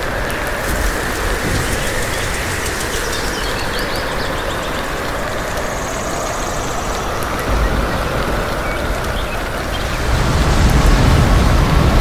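Thunderstorm with heavy rain and gusting wind, a wavering wind tone running through it; a deeper low rumble swells up near the end.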